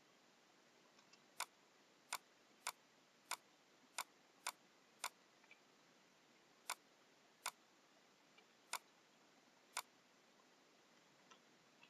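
Computer mouse clicking about eleven times at an uneven pace, in quick runs over the first five seconds and then more sparsely, while selecting lines in a drawing program.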